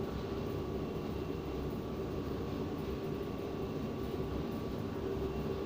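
Steady mechanical hum of background machinery, even and unchanging, with a few faint steady tones in it.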